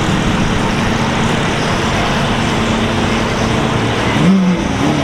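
Car engines running with a steady low drone, with a brief rise and fall in engine pitch about four seconds in.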